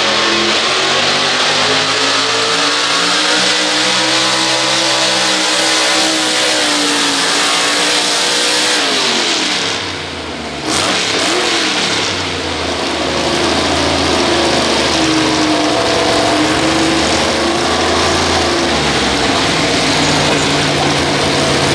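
Pulling-tractor engine running at high revs under load. About nine seconds in it falls in pitch as it throttles down, then it runs at high revs again, the pitch wavering.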